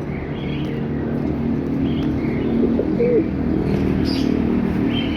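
Pigeons cooing, with one clear coo about three seconds in, over short high chirps from small cage birds.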